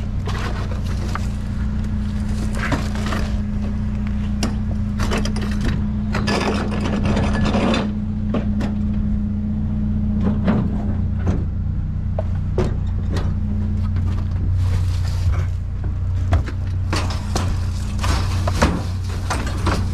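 A truck's cabin while driving: a steady low engine hum, road noise that swells twice, and scattered small knocks and rattles.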